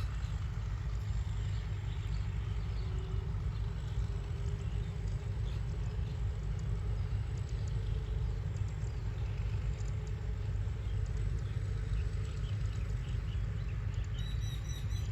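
Combine harvester running steadily in the paddy field, heard as a low, even engine rumble from some way off.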